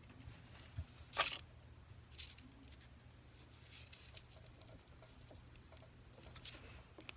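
Faint scattered clicks and brief scratchy rustles of small pliers working a thin gold bezel strip, the sharpest about a second in.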